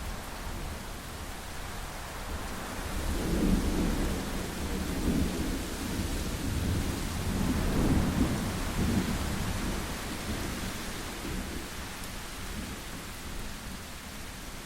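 Thunderstorm: steady rain with rolling thunder that swells twice, about four seconds and eight seconds in, then fades back under the rain.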